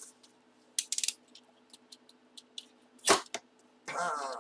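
Light clicks and taps of a sealed cardboard trading-card box being handled, with one sharp crack about three seconds in. Near the end a short rasping peel follows as the box's seal is broken.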